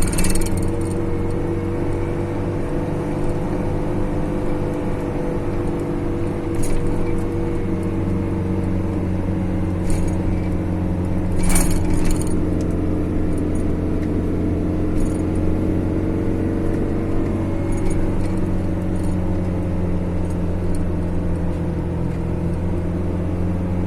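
Steady drone of a road vehicle's engine on the move, with a few brief clicks and rattles, the loudest about 11 to 12 seconds in.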